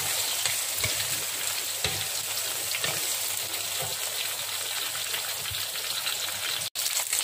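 Dried chillies, sliced shallots, cinnamon and pandan leaf sizzling steadily in hot oil in a wok, with a few soft knocks of a wooden spatula. The sound cuts out for an instant near the end.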